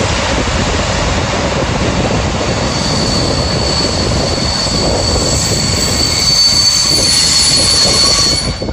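A train running past at close range, with loud rolling noise. About three seconds in, a steady high wheel squeal comes in and grows louder. The sound cuts off abruptly near the end.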